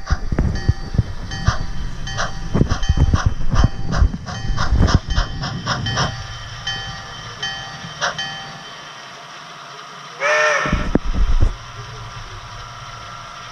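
Railroad freight cars rolling over the track, with a rapid run of metal clanks and squealing, ringing wheel and rail tones that thin out after about six seconds. About ten seconds in, a single short whistle blast of about a second.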